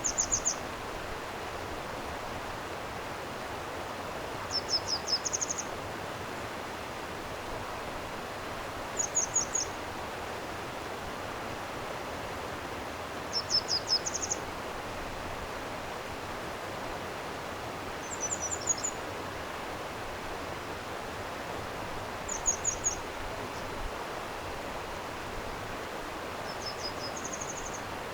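Steady rush of a flowing stream, with a small songbird repeating a short, high, rapid song phrase about every four to five seconds, seven times in all.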